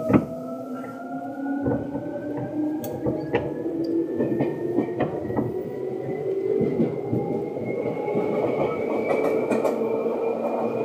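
Seibu 2000 series electric train running and gathering speed, heard from inside the car: a motor whine rising slowly and steadily in pitch over the rumble of the wheels, with sharp clicks of the wheels over rail joints, the loudest one right at the start.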